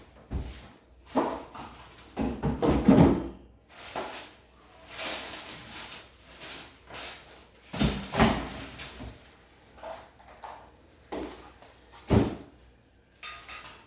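Cardboard box and packaging being handled as a wet-and-dry vacuum cleaner is lifted out of it: irregular scraping, rustling and knocks, loudest about three seconds in and again near eight seconds.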